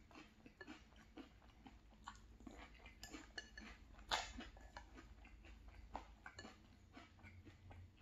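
Faint close-up chewing of crunchy Cinnamon Toast Crunch and Lucky Charms cereal in milk, with a metal spoon clicking against a glass bowl: soft irregular crunches and clicks, the sharpest about four seconds in. A low hum begins to rise near the end.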